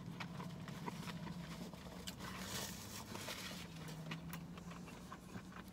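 Quiet closed-mouth chewing of a burger: soft wet mouth clicks and smacks over a steady low hum.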